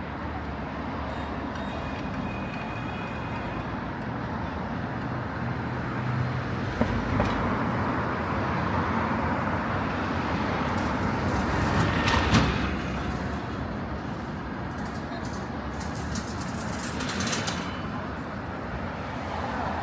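City road traffic: a steady wash of passing vehicles that swells as one goes by a little past the middle, with a short clatter of sharp clicks near the end.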